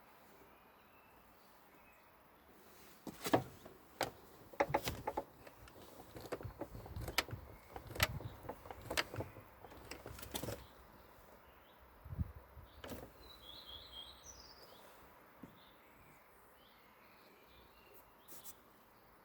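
Scattered clicks and knocks of hands working on a car door and its mechanism, irregular and sharp, for most of the first two-thirds. A bird chirps a few times past the middle.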